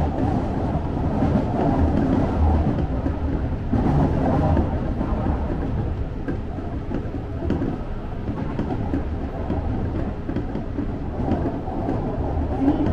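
Seibu Shinjuku Line electric commuter train running at speed, heard from inside the car: a steady rumble of wheels on rails with motor hum, swelling slightly a couple of times.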